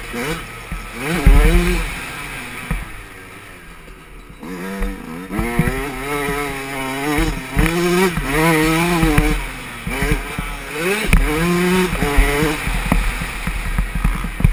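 Yamaha 125 motocross bike engine revving up and falling back again and again as the rider works the throttle and gears, with the throttle closed and the engine quieter for a couple of seconds near the start. A few low thumps come through under the engine.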